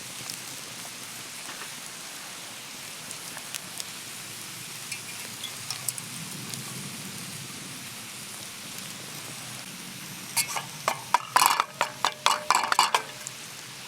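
Food sizzling steadily on a hot iron griddle, with a run of sharp metallic clicks and scrapes of a utensil on the griddle from about ten seconds in.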